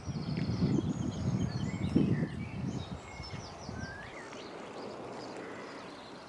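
Wild birds chirping and calling with many short high notes, over a loud, irregular low rumbling noise that dies away after about four seconds.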